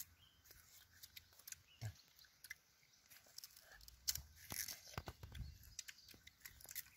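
Faint, scattered cracks and crunches of raw sugarcane being torn with the teeth and chewed.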